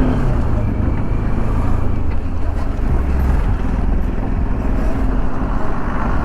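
A vehicle on the move: steady engine and road noise with low rumbling wind noise on the microphone, unbroken throughout.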